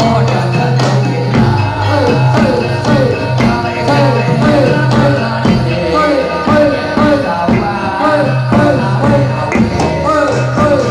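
Jathilan accompaniment music played loud and steady: a fast, even drum rhythm with pitch-bending drum strokes over long held low notes.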